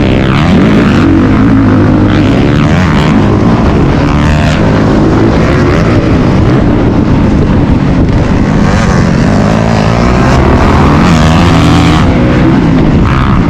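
Dirt bike engine running hard and close, its revs rising and falling repeatedly as the bike is ridden around a motocross track.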